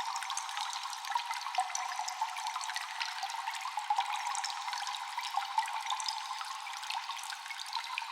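Water dripping in a cave: many drops fall at irregular times, echoing, over a steady hiss of running water.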